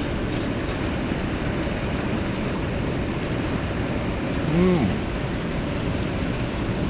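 Steady rushing of a mountain stream. About two-thirds of the way in, a man gives a short voiced 'mm' that rises and falls.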